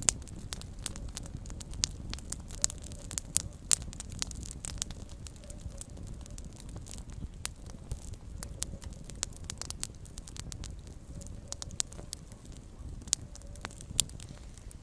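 Small campfire crackling, with frequent irregular sharp pops over a low, steady rumble of the flames.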